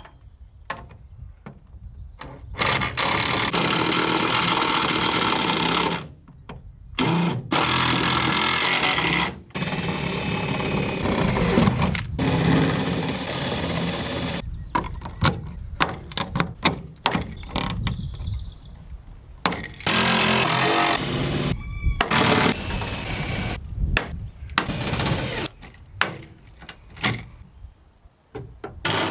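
A power tool runs in bursts of a few seconds at a time, with short knocks and clicks in the gaps between bursts, during riveting work on steel body panels.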